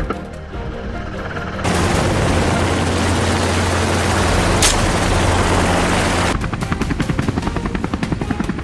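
Helicopter running, with one sharp rifle shot a little past halfway. Near the end the rotor's fast, even blade chop comes through.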